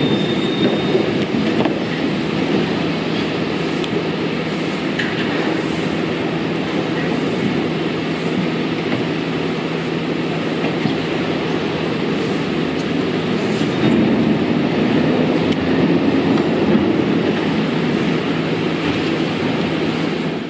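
Busy market din of turret trucks, motorized three-wheeled carts, running and rolling past one another, a steady low mechanical rumble.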